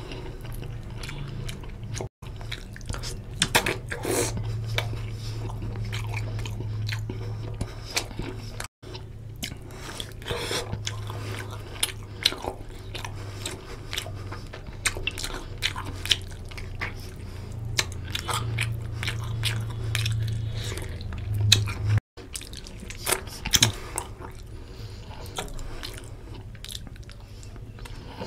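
Close-miked wet chewing, biting and lip-smacking of a man eating chicken curry and rice by hand, many short clicks and smacks over a steady low hum. The sound drops out for an instant three times.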